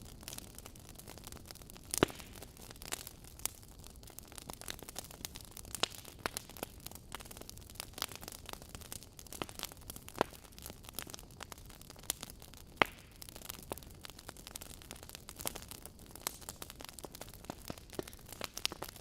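Wood fire burning in a fireplace, logs crackling with irregular pops over a low hiss. A few sharper pops stand out, about two, ten and thirteen seconds in.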